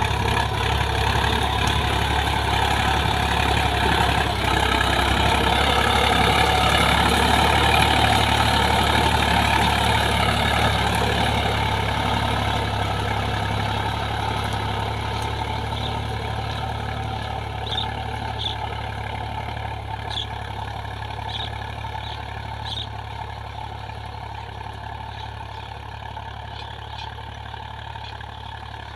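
Preet 955 tractor's diesel engine running steadily, growing slightly louder over the first several seconds and then slowly fading.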